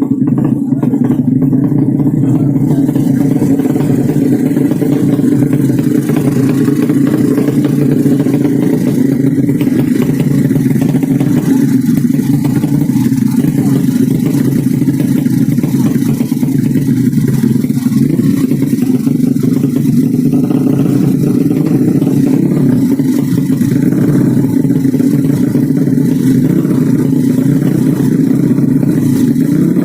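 A 200cc underbone racing motorcycle engine running loud and steady at held revs.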